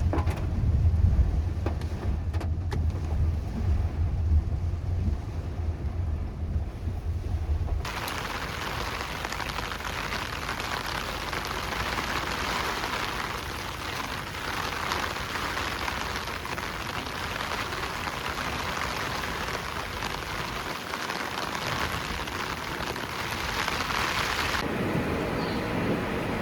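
Heavy typhoon rain falling in a steady hiss. For the first eight seconds or so a deep low rumble runs under it, cutting off abruptly, after which the rain goes on alone.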